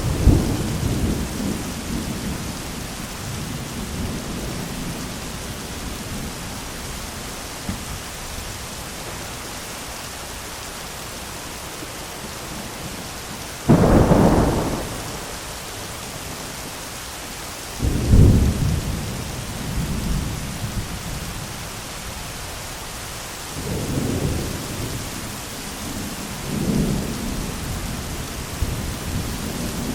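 Thunderstorm: steady heavy rain with rolling thunder. A rumble fades over the first few seconds, a sudden sharp thunderclap comes about halfway through, a deep rumble follows a few seconds later, and softer rumbles come near the end.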